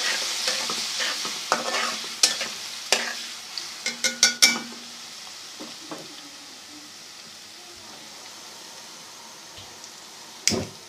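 Garlic-ginger paste sizzling in hot ghee in a kadhai while being stirred, with quick scrapes and clinks against the pan. The sizzle fades over the first few seconds and the stirring stops about four and a half seconds in, leaving a faint steady hiss as the pan sits with the flame off; a single knock sounds near the end.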